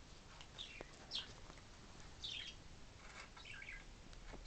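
A small bird chirps a few times, in short, high, falling chirps at irregular intervals.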